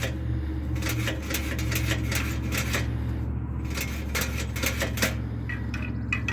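Fast, uneven clicking from a hand-turned bicycle mechanism being worked as a mock engine, over a steady low hum.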